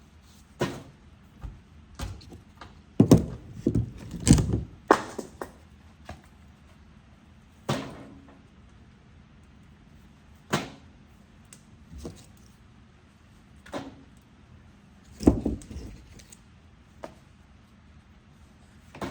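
A wood stove being loaded with firewood logs: about a dozen irregular knocks and clunks of wood and metal as logs go into the firebox and the stove door is handled.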